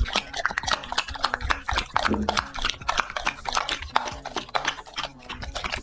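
A dog eating from a plate, chewing and crunching with a quick run of short clicks of teeth and food.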